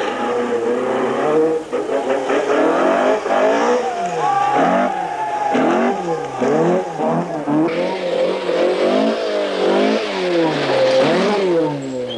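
Rally car engine revving hard on a special stage, its pitch climbing and dropping back over and over as the driver shifts gears and lifts off for corners.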